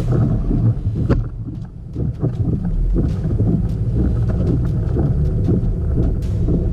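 Steady low rumble with scattered knocks and clicks as the chase vehicle sets off, with strong storm wind around it.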